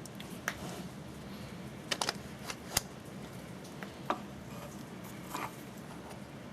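A few light, sharp clicks and taps from small wooden parts being handled during a dowel glue-up, scattered irregularly, with a cluster about two seconds in, over a steady low hum.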